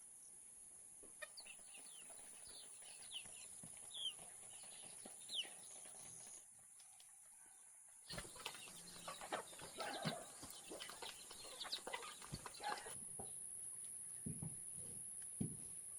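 Chickens: short falling chirps in the first few seconds, then after a brief pause a busier stretch of clucking and rustling, with a few low knocks near the end.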